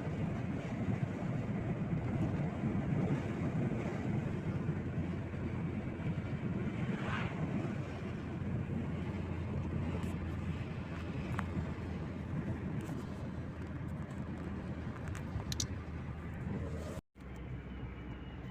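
Moving car's steady road and engine noise, a low rumble with no speech over it. It cuts out abruptly for a moment near the end, then resumes a little quieter.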